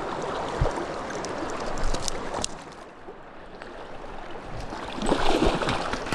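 River current rushing steadily, with a few faint clicks. It grows louder from about five seconds in, with a few knocks.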